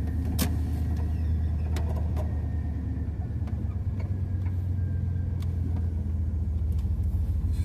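Van engine running at low speed while parking, a steady low rumble heard from inside the cab, with a few scattered sharp clicks.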